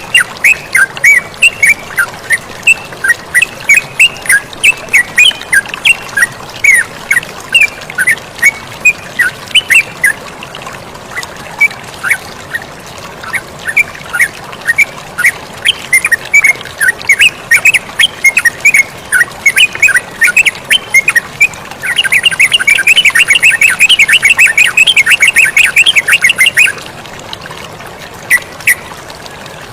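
Yellow-vented bulbul (terucukan) singing: a string of short, bubbly notes over a steady rush of flowing water. About two-thirds of the way through comes a dense, rapid run of notes lasting some five seconds, then single notes again.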